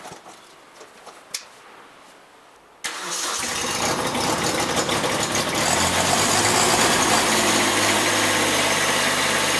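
After a few faint clicks, the Kubota B2601 compact tractor's three-cylinder diesel is cranked about three seconds in. It catches almost at once and settles into a steady idle: a cold start in the snow, left running to warm up.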